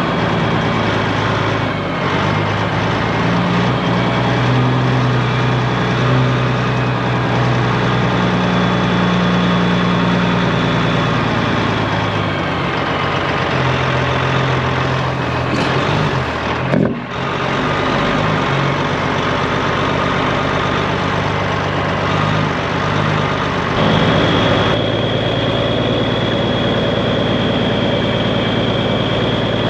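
Straight-piped Peterbilt 389 semi truck's diesel engine running under way, its note stepping up and down in pitch a few times, with a brief drop about two thirds of the way through.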